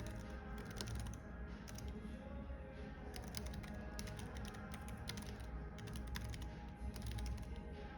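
Typing on a computer keyboard in irregular bursts of quick key clicks, with soft background music and a low cafe rumble underneath.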